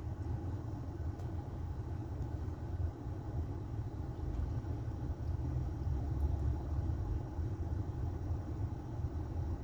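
Steady low rumble inside a car: engine and road noise with no clear changes.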